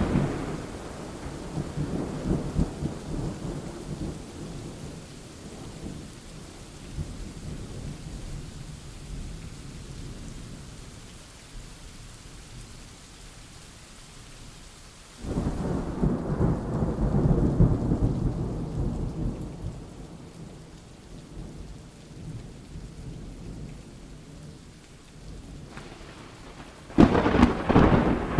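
Rain falling steadily through a thunderstorm. A thunder rumble dies away at the start, a second peal breaks suddenly about halfway and rolls off over several seconds, and a sharp crack of thunder comes near the end.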